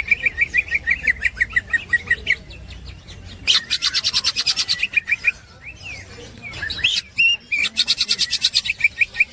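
Green leafbird (cucak ijo) singing its rapid chattering 'ngekek' song: runs of fast, evenly repeated notes, about ten a second, broken by short pauses.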